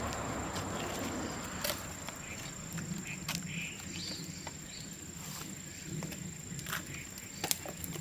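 Cut bamboo burning in an open bonfire: a low crackle broken by sharp cracks and pops every second or so, the loudest near the end.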